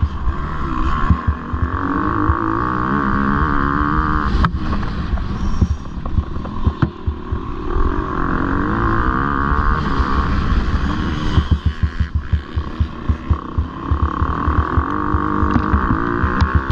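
MX2-class motocross bike engine revving hard and backing off again and again, as on a race track. Between the high-rev stretches come rapid irregular knocks and thumps, thickest about two-thirds through.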